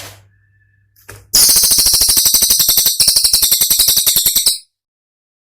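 Cililin songbird giving its 'tembakan', a loud, very fast rattling trill of sharp high notes lasting about three seconds, with a brief catch about halfway, then cutting off abruptly.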